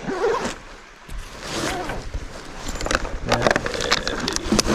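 Irregular rustling and scraping with sharp clicks, thickening in the second half, with a brief mumble of speech early on.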